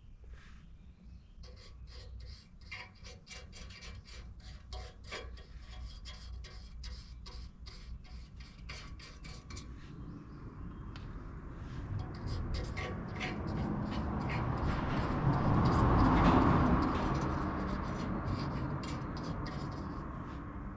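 Scratchy strokes of a brush rubbing rust treatment onto a rusty steel car wing panel. The rubbing grows louder and denser, loudest about two-thirds of the way through, then eases off.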